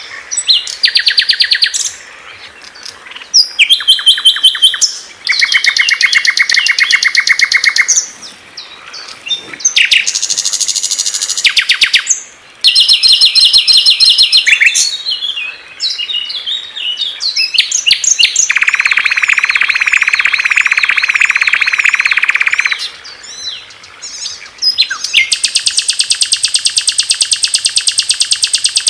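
Songs of several small songbirds in short clips one after another: loud, very fast trills and chattering runs of high notes, each song stopping abruptly as a different one begins.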